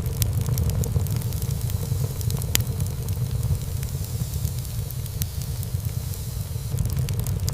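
Wood fire burning in a fireplace: a steady low rumble of flames with scattered crackles and pops, one sharper pop about two and a half seconds in.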